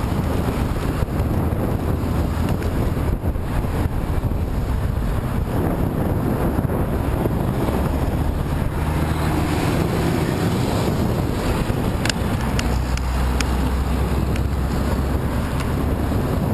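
Headwind buffeting the microphone of a camera on a moving bicycle: a steady, loud low rumble of wind noise, with a few short clicks about twelve seconds in.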